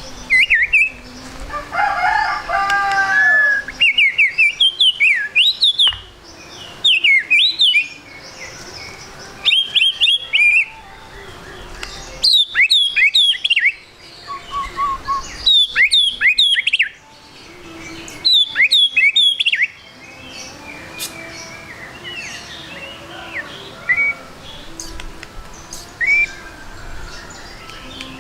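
White-rumped shama (murai batu) singing: loud bursts of fast, rising and falling whistled and chirped phrases, a new burst every second or two. After about twenty seconds only a few scattered soft notes remain.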